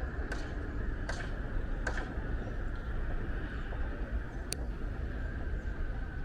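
Steady low rumble of city traffic and street noise. A few soft knocks come about once a second over the first two seconds, and a single sharp click comes about four and a half seconds in.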